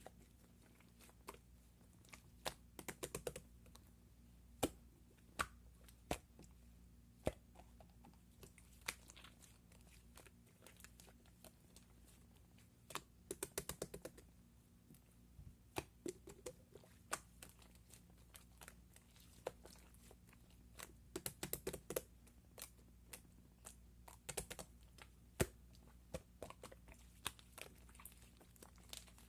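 Faint, light clicks and taps, some single and some in quick runs of several, like typing. They come irregularly, with denser runs about 3 seconds in, around 13 to 14 seconds, and again near 21 and 24 seconds.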